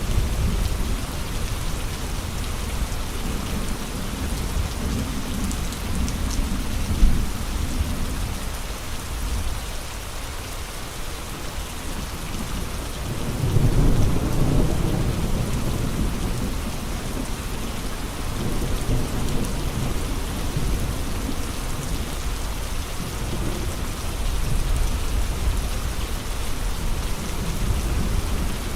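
Steady heavy rain hissing with gusting wind, swelling into low rumbles at the start, about a third of the way in, and again near the end. A single sharp tick about seven seconds in.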